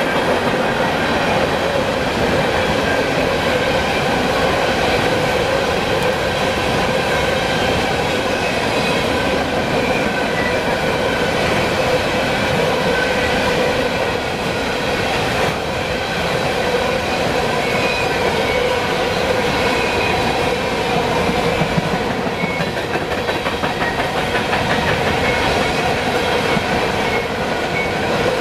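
Freight train cars rolling steadily past: a continuous loud rumble and clatter of steel wheels on the rails, with faint steady squealing tones from the wheels.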